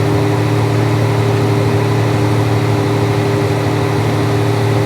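John Deere 8235R tractor's six-cylinder diesel engine running steadily: a low drone with two steady higher tones above it.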